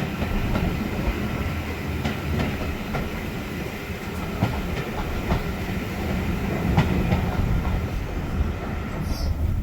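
Railway carriage running along the track, heard from inside: a steady low rumble with irregular clicks and knocks from the wheels over the rail joints.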